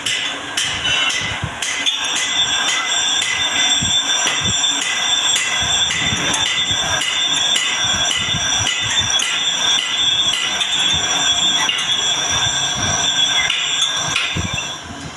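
Metal-cutting lathe turning a steel part, the tool on the workpiece giving a steady high-pitched metallic whine that sets in about two seconds in and fades near the end, with irregular knocks and clatter underneath.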